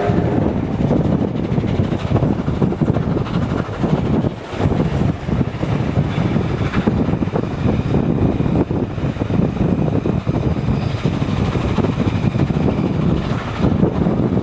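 A train running, a loud steady rumble with wind on the microphone.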